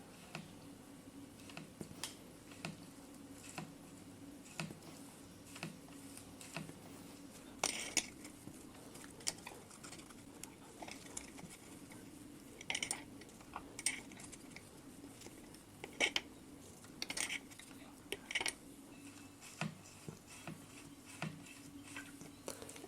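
Irregular light metallic clicks and clinks from working a Shimano hydraulic disc brake caliper: a thin tool holds one piston back while the brake lever is squeezed to push the sticking piston back out and free it up.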